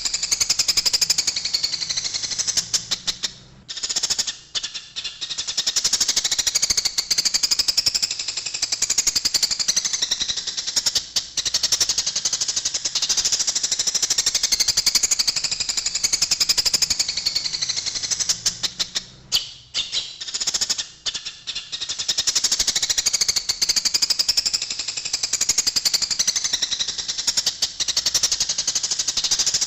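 Eurasian tree sparrows chattering in fast, dense runs of high chirps: the agitated calls of sparrows fighting. The chatter thins out briefly twice, about four seconds and twenty seconds in.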